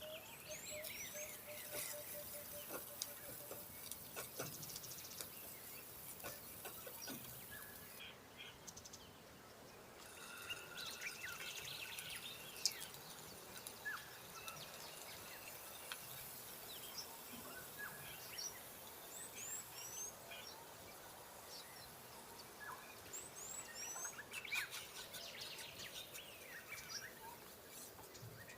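Faint chirping of small birds, short high calls that come again and again, over a light hiss, with a few small clicks and taps.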